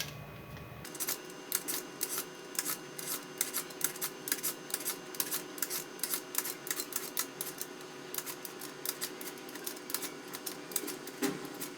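Raw potato being peeled by hand: quick, repeated short scraping strokes of the blade across the skin, a few a second, starting about a second in.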